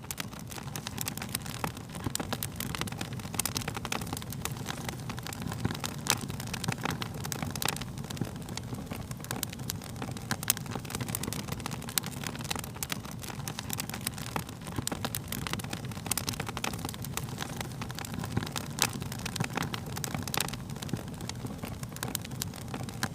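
Fire crackling, with many small sharp pops and snaps over a steady low rumble.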